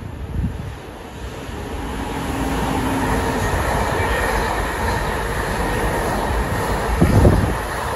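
Container freight train passing close by: a steady rumble of wagon wheels on the rails that swells as the locomotive arrives, then holds as the loaded container wagons roll past. Near the end come a couple of short, low thumps.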